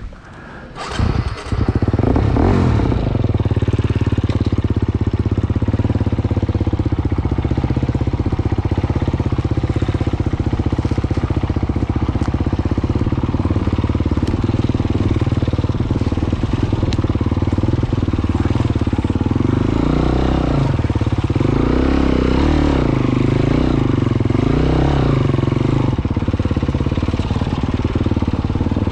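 Enduro dirt bike engine running hard and steadily, coming in loud about a second in, with the revs rising and falling several times in the last third.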